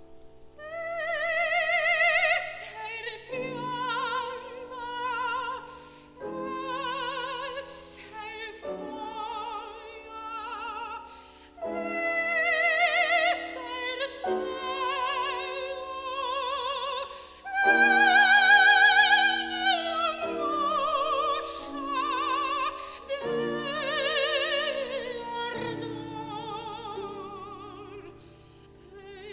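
Classical soprano singing an art song with piano accompaniment: long held notes with wide vibrato over sustained piano chords, the loudest held note coming about two-thirds of the way through.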